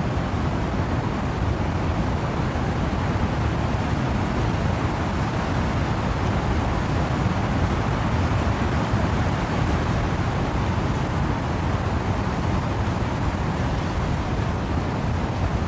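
Steady wind and rain through trees: an even, unbroken rushing noise, heaviest in the low rumble.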